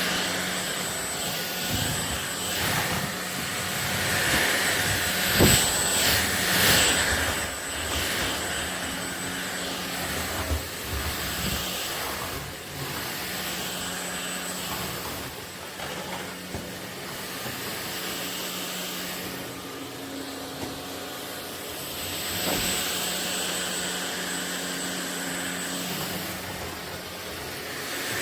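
Ultenic U16 Flex cordless stick vacuum running steadily, a motor hum with a high whine. It swells louder twice: a few seconds in and again near the end.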